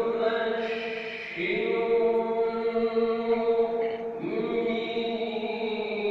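Melodic Qur'an recitation (tilawah): a reciter's voice holding long, drawn-out notes, with new phrases starting about a second and a half in and again about four seconds in.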